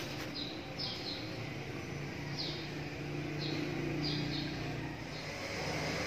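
Small birds chirping in short, falling calls, about six times, over a steady low hum. A steady high-pitched whine comes in about five seconds in.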